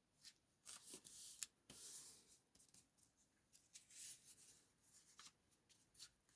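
Faint rustling and rubbing of paper being handled, in short scrapes, with one sharper tick about a second and a half in.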